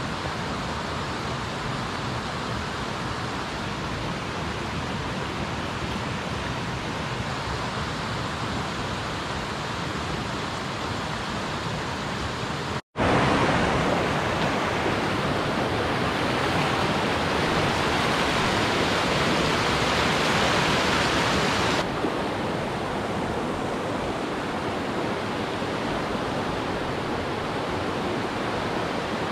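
Rushing water of a mountain stream, a steady even rush with no distinct splashes. About 13 s in it breaks off for an instant and comes back louder and brighter, then drops back to the softer rush about 22 s in.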